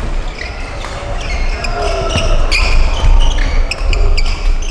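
Indoor badminton play: shoes squeaking in short high chirps on the court floor, with several sharp racket hits on the shuttlecock, over the low rumble of a large hall.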